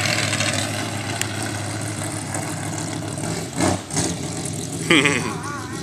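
Dirt-track race car's engine idling steadily through open headers, with two short louder bursts about four seconds in.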